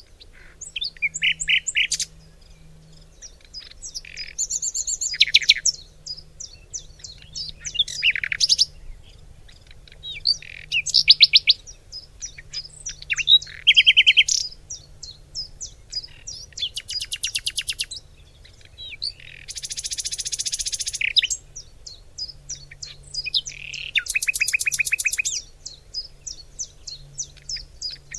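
Birds singing: a steady stream of short, high repeated notes broken every few seconds by loud, fast trills.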